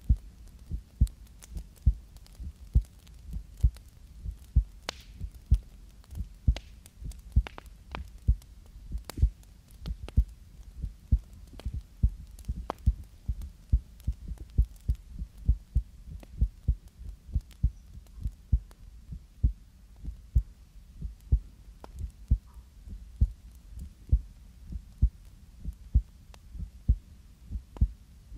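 Slow, steady heartbeat: soft low double thumps about once a second. Faint scattered clicks and rustles of hands moving close to the microphone lie over it.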